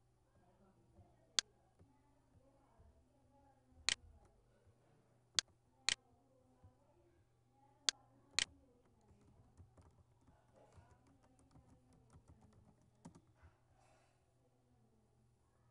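Computer mouse and keyboard in use: about seven sharp, loud clicks spread over the first eight seconds or so, then a run of quick, lighter keystrokes from about nine to thirteen seconds in as a web address is typed.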